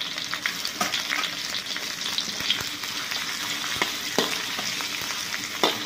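Chopped ginger, garlic and sliced onion sizzling in hot oil in a metal wok. A metal spatula stirs them, scraping and knocking against the pan a few times.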